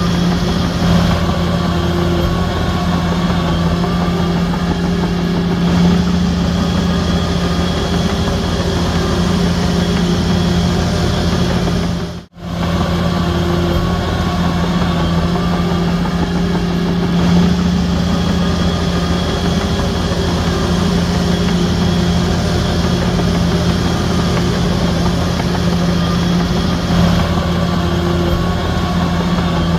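Heavy diesel engine of a Shantui DH17C3 bulldozer running steadily, with a brief drop-out about twelve seconds in.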